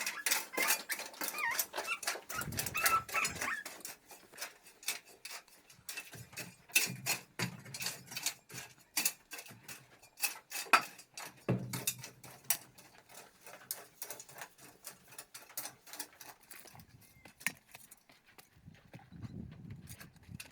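An irregular series of sharp clicks and knocks, with high, wavering calls in the first few seconds.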